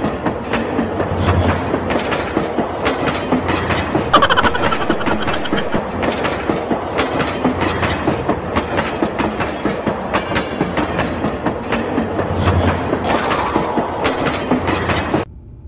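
Toy train running on plastic track with a steady, rattling clickety-clack, with a brief high tone about four seconds in; the sound cuts off suddenly near the end.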